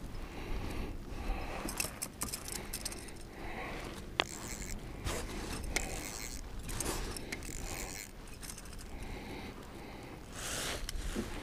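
Wind buffeting the microphone as a constant low rumble, with scattered small clicks, scrapes and rattles of gear being handled in a kayak.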